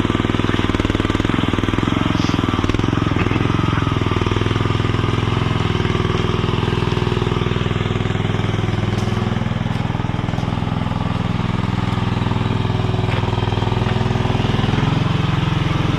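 Chinese mini skid steer's small engine running steadily under hydraulic load, its note shifting briefly a few seconds in as it works the bucket.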